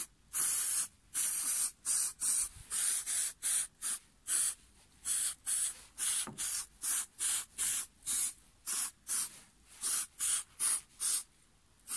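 Silicone remover sprayed from a can in a rapid series of short hissing squirts, about three a second.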